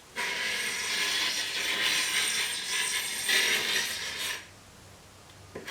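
Carbide hand scraper dragged across a wooden tabletop, shaving off the crusty old finish. The scratchy scraping runs for about four seconds, stops for about a second, then starts again near the end.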